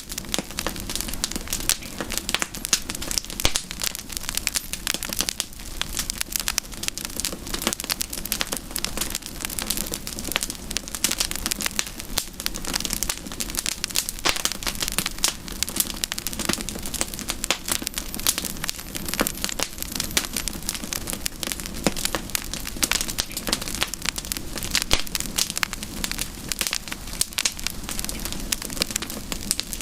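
Wood campfire burning, with a dense, continuous crackle of small snaps and pops.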